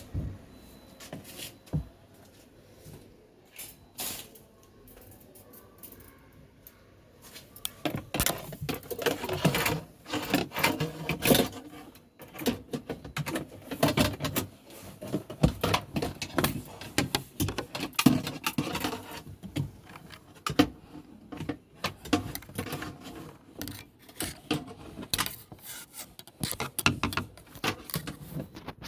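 A wire rattling and scraping as it is worked into a washing machine's plastic drain pipe to hook out socks that are blocking it. The irregular clicks and scrapes are sparse at first, then come thick and fast from about eight seconds in.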